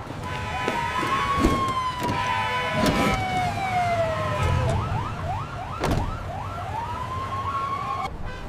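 Emergency vehicle siren: a slow rising and falling wail that switches to a fast yelp about halfway through, then goes back to a long rising wail. A few sharp knocks sound over it.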